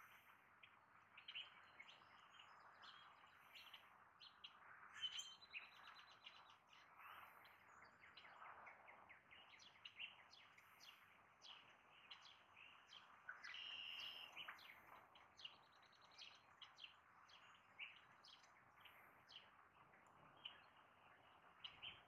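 Faint scattered chirps and short calls of small birds over a soft hiss, with a longer run of chirping about two thirds of the way through.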